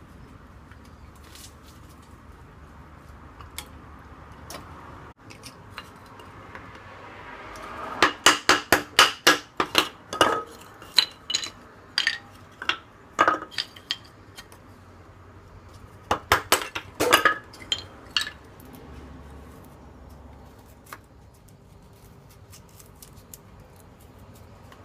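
Eating utensils clinking and scraping against metal cookware while eating, in quick runs of sharp, ringing taps, with pauses between them.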